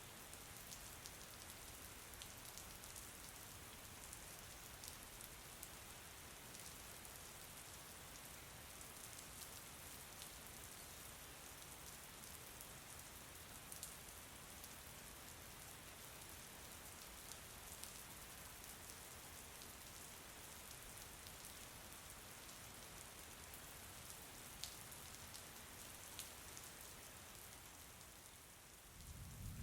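Steady, soft rain falling, an even hiss with scattered sharper drop ticks. A low rumble rises at the very end.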